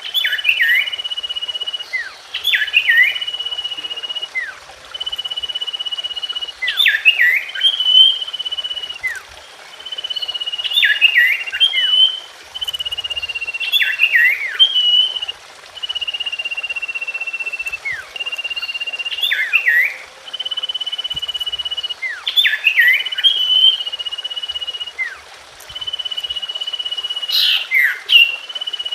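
Common iora song: a long, steady high whistle held for about a second and a half, then a quick cluster of sharp falling notes, the phrase repeating about every four seconds.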